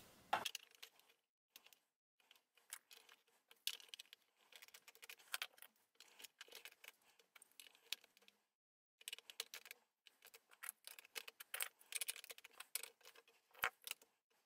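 Faint, scattered clicks and small knocks of large plastic toy building bricks being handled and pressed together, building the walls of a mold box.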